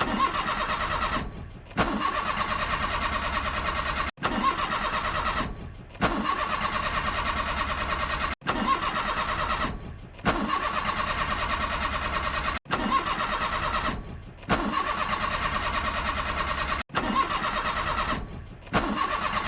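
Suzuki Mehran's starter motor cranking its small three-cylinder engine in repeated bursts of about two seconds, with a fast, even pulsing; several bursts cut off abruptly. The engine struggles to start.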